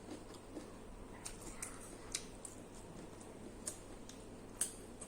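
Faint eating sounds: scattered soft clicks and smacks of someone chewing food, the sharpest about four and a half seconds in.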